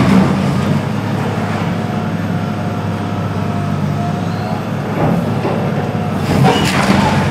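Heavy demolition machinery running steadily with a low engine drone, with crunching crashes of building debris about five seconds in and again shortly after.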